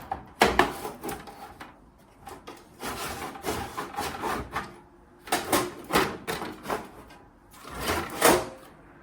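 A replica Apple Lisa's internal module being slid into its sheet-metal chassis: scraping and rubbing as it slides, with several knocks and clicks as the parts meet and seat.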